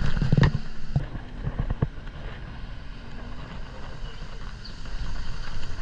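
Motorcycle being ridden, engine running under steady wind buffeting on the microphone, with a few sharp knocks in the first two seconds.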